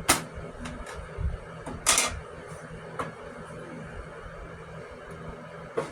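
A homemade window panel insert for a portable AC unit being handled, with a panel pushed out: a few sharp knocks and clacks, the loudest and longest about two seconds in.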